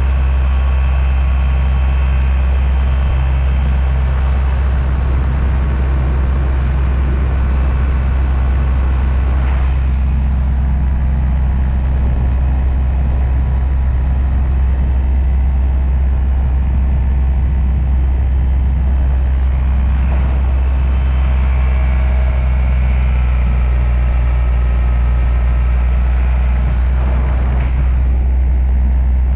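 Paramotor engine and propeller running at a steady throttle.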